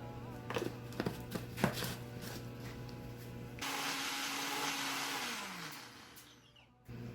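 Electric blender motor running with a loud whirring rush, then switched off, its pitch sliding down as it spins down to a stop. Before it, background music with a few light knocks.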